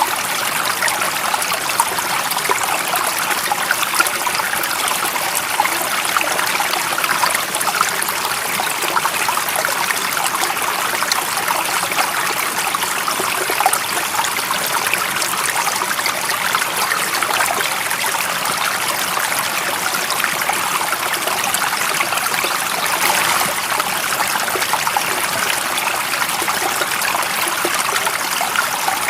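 Stream water running and trickling steadily, a constant hiss with fine splashing detail and no pauses.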